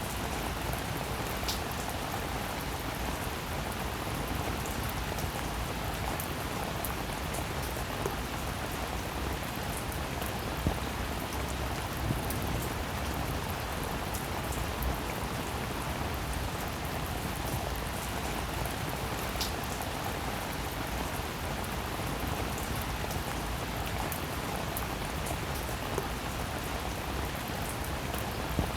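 Rain falling steadily, an even hiss with occasional sharper drop ticks through it.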